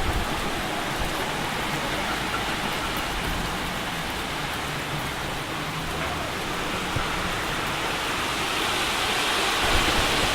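Electric suburban train running through a station: a steady rushing of wheels on rail, with a faint low motor hum in the middle and growing louder and brighter near the end.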